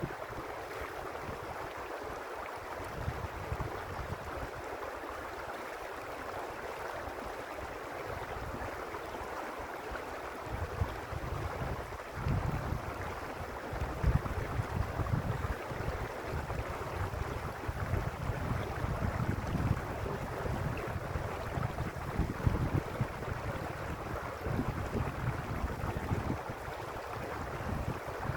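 A stream's water rushing steadily over its bed. From about a third of the way in, gusts of wind buffet the microphone with a low, uneven rumble.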